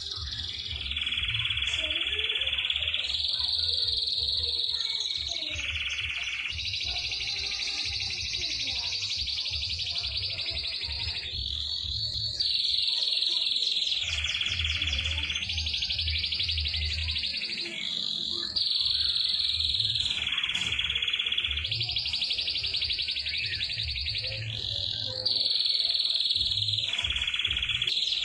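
Domestic canary song used as a masteran tutor recording: long, rapid rolling trills and chattering phrases, each running a few seconds before switching to the next type. A low pulsing beat runs underneath.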